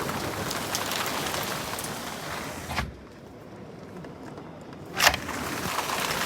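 Heavy rain with no hail, steady at first. A little under three seconds in, a thump comes and the rain turns muffled and quieter. A loud knock about two seconds later brings the full rain sound back.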